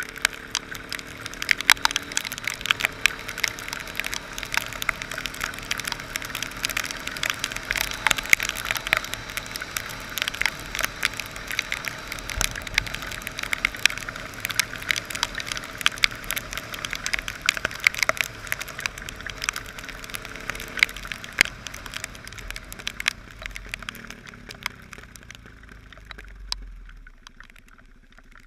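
Heavy rain in a cloudburst, drops striking the microphone as a dense crackle of sharp clicks, with a faint motorcycle engine underneath. The crackle thins out and gets quieter near the end.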